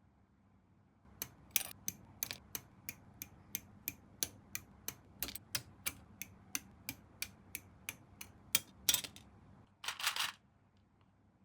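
A run of sharp, evenly spaced clicks, about three a second, lasting some eight seconds, followed near the end by a short burst of noise.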